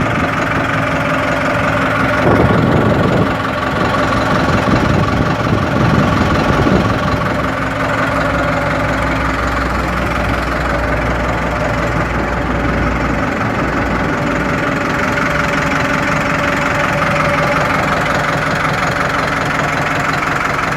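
New Holland TS100 tractor's diesel engine running steadily, louder and rougher for a few seconds near the start.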